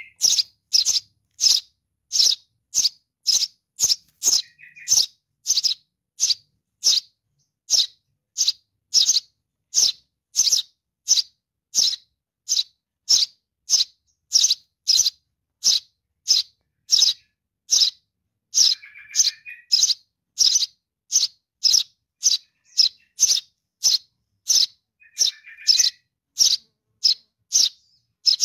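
Young Eurasian tree sparrow's begging call for its parent: short, high chirps repeated evenly about one and a half times a second, with a softer, lower twitter a few times.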